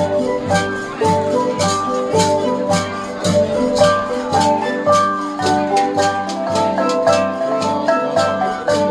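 A Central Highlands gong ensemble (cồng chiêng) playing. Many gongs ring with overlapping pitched tones over a deep beat about twice a second, with sharp metallic strikes between.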